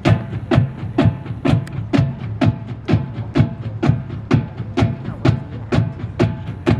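High school marching band playing, with sharp drum strikes on a steady beat about twice a second under held brass chords.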